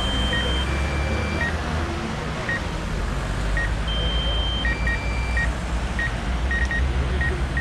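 Electronic beeping: short, irregularly spaced beeps at one pitch mixed with longer held tones at two higher pitches, over a steady low engine-like rumble.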